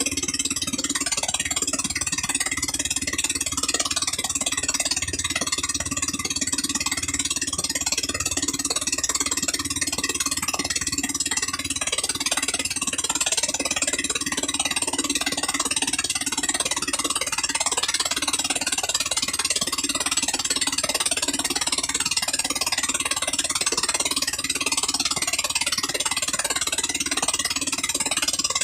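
A 13 HP gasoline engine running steadily at an unchanging speed.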